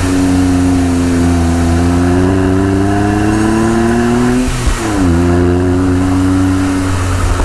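Honda S660's 658 cc turbocharged three-cylinder engine pulling under acceleration, its pitch climbing steadily; about four and a half seconds in it briefly dips and drops abruptly in pitch on an upshift of the six-speed manual, then climbs again.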